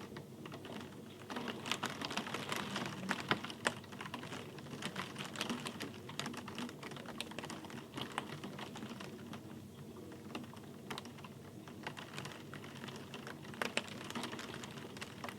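Rain, heard as many irregular sharp ticks of drops striking close by over a steady soft hiss.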